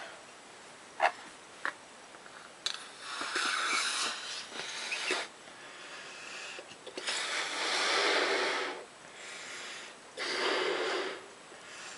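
A person blowing hard into a balloon: three long, breathy blows, starting about three, seven and ten seconds in. A couple of small clicks come near the start.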